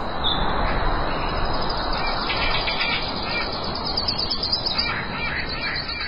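Birds calling, with a quick run of short chirps in the second half, over a steady noisy background.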